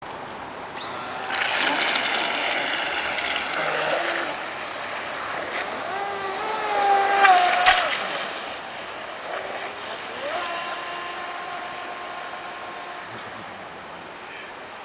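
Pro Boat Stiletto RC boat's brushless motor, on a 5-cell lipo, whining as it runs on the water, its pitch rising and falling with the throttle and loudest about seven seconds in. It then runs at a steadier pitch and fades toward the end as the boat moves away.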